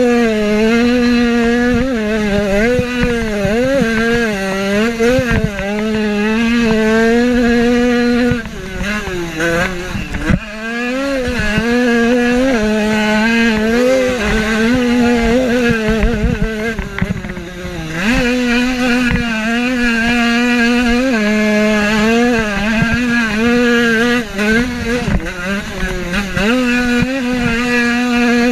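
Motocross bike engine at close range, revving hard and rising and falling in pitch with throttle and gear changes. It drops off briefly about eight to ten seconds in and again around seventeen seconds, then pulls back up.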